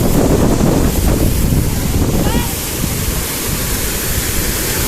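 Steady rushing water from a waterfall, mixed with wind buffeting the microphone. A brief high-pitched call comes about halfway through.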